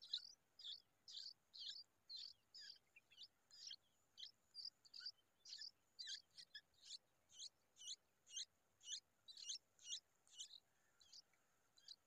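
Himalayan bulbul nestlings begging at the nest as a parent feeds them: a steady string of short, high chirps, about two a second.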